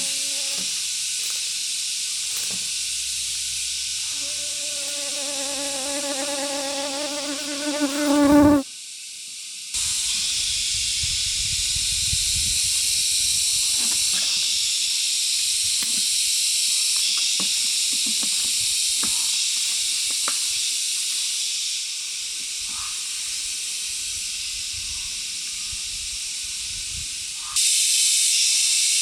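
Dense, steady high hiss like a chorus of forest insects. A few seconds in, a goat bleats for about four seconds in a quavering call that rises and grows loud just before it breaks off.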